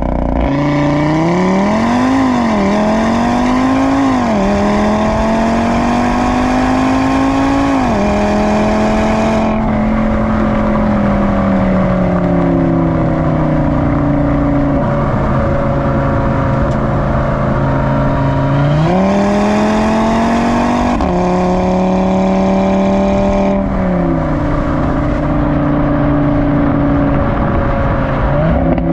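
Audi RS3 8V's 2.5-litre five-cylinder engine and exhaust under way. It revs up in several short pulls over the first eight seconds, then settles to a steady cruise. About two-thirds in it picks up again and drops in pitch in two sudden steps, as at gear changes.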